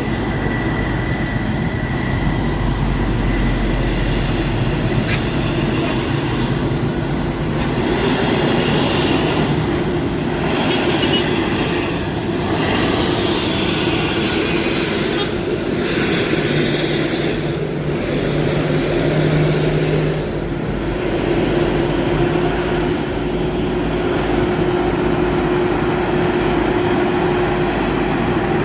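A heavy vehicle's engine running hard and continuously, with a steady low tone and thin high whines over it that sag slightly in pitch.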